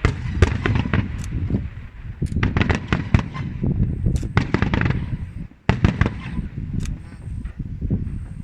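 Aerial fireworks shells bursting in rapid succession: a dense run of sharp bangs and crackles, with a brief lull about five and a half seconds in before more bursts.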